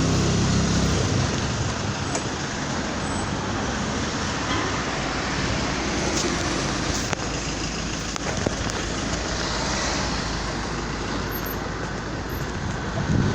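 Steady motor vehicle and traffic noise: a continuous rumble and hiss with no distinct events.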